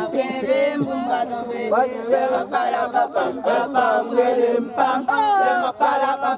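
A group of voices chanting and singing together, many overlapping at once.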